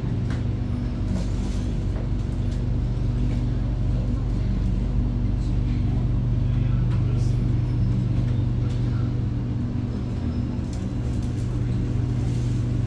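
Inside an SMRT C751B train standing at a station platform: a steady low electrical hum from the train's onboard equipment, with a few faint clicks.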